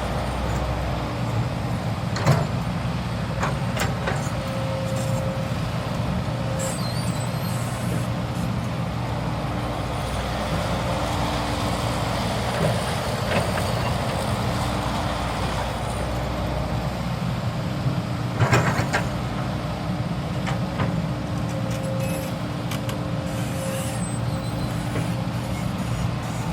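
CAT 320 GC hydraulic excavator's diesel engine running steadily as it works, with sharp metallic knocks a couple of seconds in and again about two-thirds of the way through.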